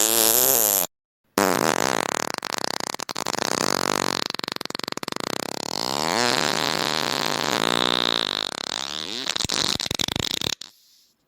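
Fart sound effects: the end of one pitched, wavering fart, a short break, then one long fart of about nine seconds, rapidly fluttering with its pitch wandering up and down, cutting off suddenly near the end.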